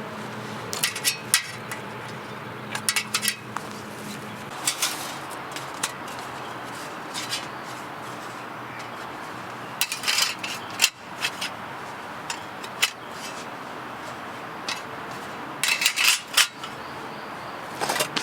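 Irregular clinks and clatters of metal camp cookware or gear being handled, coming in short clusters over a steady hiss.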